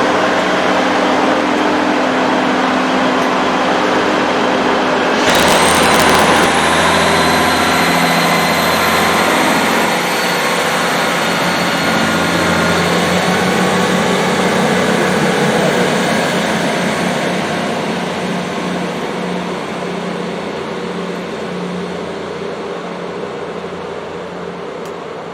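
A train running close by with a steady engine hum. About five seconds in a sudden loud rush comes in, with a high whine rising in pitch, and then the noise slowly dies away over the last several seconds.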